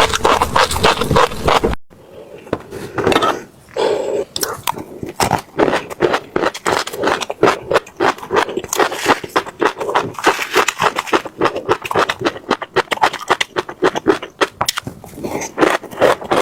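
Close-miked chewing of crunchy seeds: a dense run of crisp crunches and crackles. They stop abruptly about two seconds in, then pick up again and carry on.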